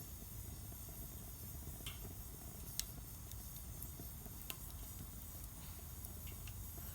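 Wood fire burning in a Solo Stove Campfire stove: a steady low rush with a few sharp crackles, the loudest nearly three seconds in and another at about four and a half seconds.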